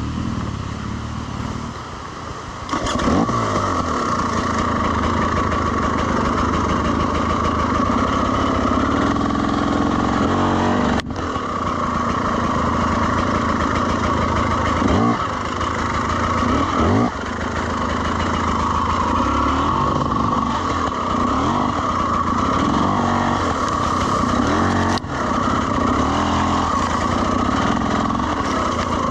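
Dirt bike engine running under load on a slippery trail, its revs rising and falling repeatedly with sharp rev-ups about three seconds in and again around the middle.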